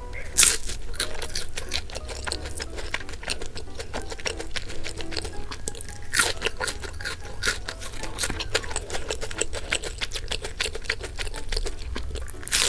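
Close-miked chewing of crisp bungeoppang (fish-shaped pastry): dense, irregular crunching and crackling, with a sharper crunch about half a second in and another about six seconds in.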